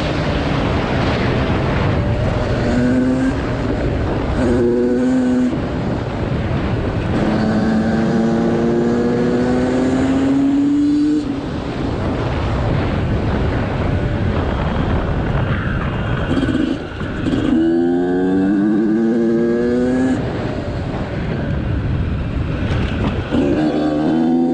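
Motorcycle engine accelerating hard, its pitch climbing and then dropping at each gear change, several times over, against a steady rushing noise.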